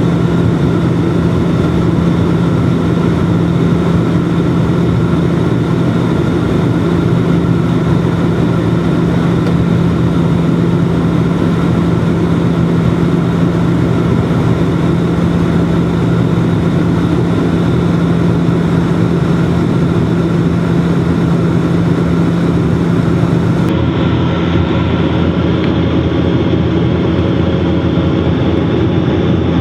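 Bombardier Dash-8 turboprop engines and propellers running with a steady, loud drone and a low hum, heard from inside the cabin. About 24 seconds in, the tone shifts slightly and a few new higher hums join in.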